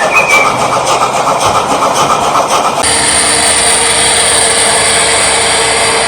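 H0 scale model train rolling along the track with a continuous wheel clatter; about three seconds in, an abrupt switch to a model locomotive running steadily, with an engine-like drone and a high whine.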